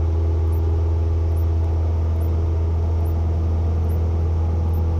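Cessna 172N's four-cylinder Lycoming O-320 engine and propeller droning steadily at climb power.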